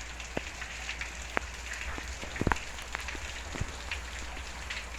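Steady heavy rain falling, with scattered sharp drops tapping close by, the loudest about halfway through.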